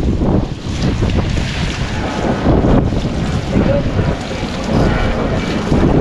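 Strong wind buffeting the microphone in uneven gusts, with ocean surf washing underneath.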